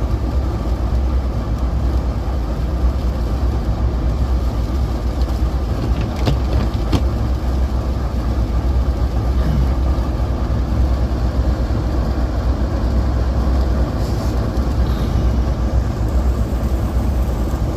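Vehicle running with a steady, unchanging low rumble, with a couple of faint clicks about six and seven seconds in.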